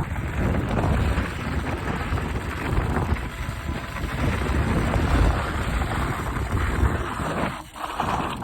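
Wind buffeting the microphone over the running noise of a vehicle, easing off briefly near the end.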